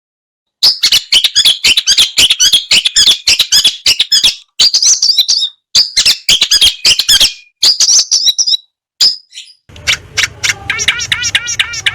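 Long-tailed shrike (cendet) singing: fast, harsh chattering phrases packed with varied mimicked notes and clicks, in bursts broken by short gaps. Near the end the sound changes to a quick run of repeated rising-and-falling notes over a low hum.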